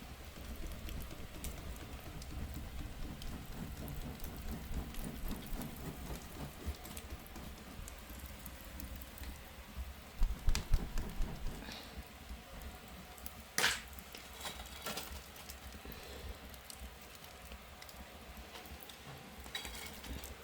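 Firewood burning in an agungi, a traditional Korean fire hole, with steady crackling and small pops over a low rumble. A few dull thumps come about ten seconds in and one sharp loud crack a little later.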